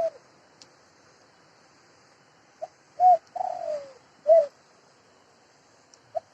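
A dove cooing: a short coo right at the start, then, about three seconds in, two short coos, a longer coo falling in pitch, and one more short coo.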